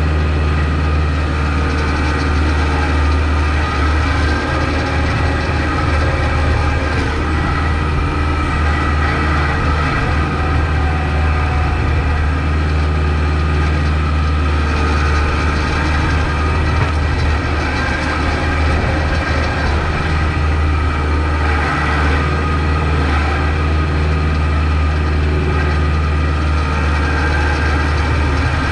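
Kubota MX5200 tractor's diesel engine running steadily with a deep, even hum while plowing snow.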